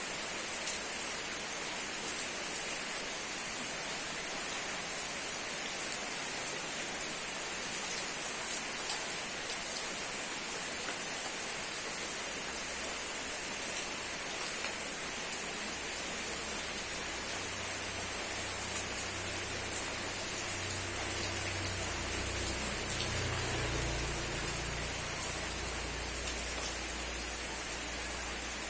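Steady rain falling, with the patter of many individual drops. A low rumble builds in the second half.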